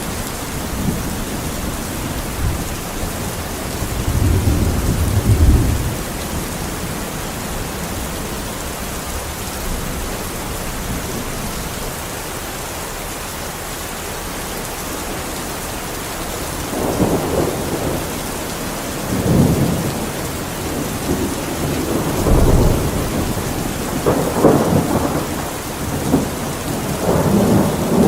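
Steady rain hissing, with low rumbling swells lasting a second or two each: one about four seconds in and several more through the last third.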